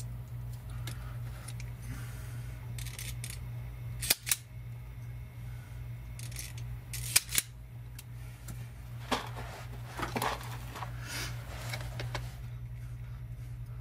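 Hand tools snipping and clicking as wires are cut and butt connectors crimped on, with a few sharp snaps in pairs amid softer rustling handling, over a steady low hum.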